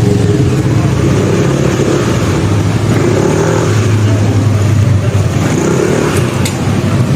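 Motorcycle engine running steadily, with a low hum that swells and eases slightly.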